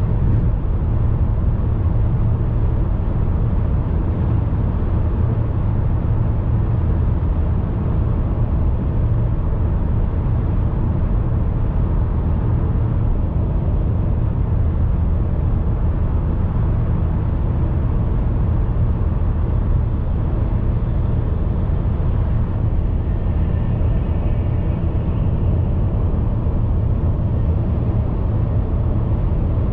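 Steady low rumble of a car being driven, road and engine noise with no breaks, strongest in the bass. A faint high tone comes in briefly a little past the middle.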